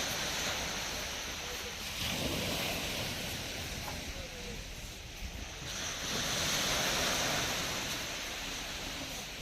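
Black Sea waves breaking on the shore, the wash swelling twice, about two seconds in and again about six seconds in, with wind rumbling on the microphone.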